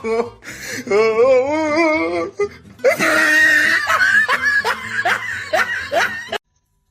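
Laughter with music, cutting off suddenly near the end.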